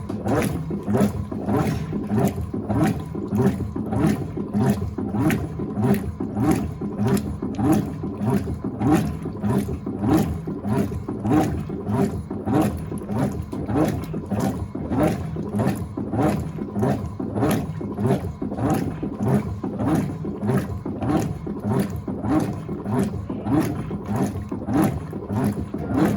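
Electrolux LTA15 top-loading washing machine agitating a load: the agitator swishes back and forth through the water in an even rhythm of about one and a half strokes a second.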